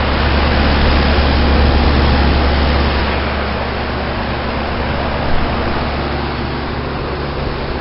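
Lennox Elite series heat pump outdoor unit running in heat mode: a steady rush of fan air over a low compressor hum, easing slightly about three seconds in.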